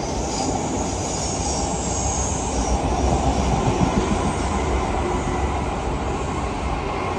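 A train running through the station close by: a steady rumble of wheels on rails that builds over the first few seconds, peaks and then holds, with a high hiss over it early on.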